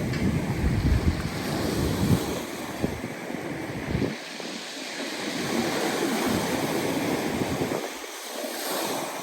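Black Sea surf breaking and washing ashore in a steady, swelling rush, with wind buffeting the microphone in low gusts, strongest in the first few seconds.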